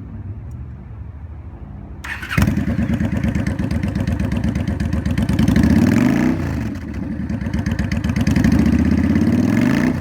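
Honda Shadow Spirit 750's liquid-cooled V-twin, through a Cobra straight exhaust, starting up about two seconds in. It is then revved twice, the pitch rising and dropping back each time.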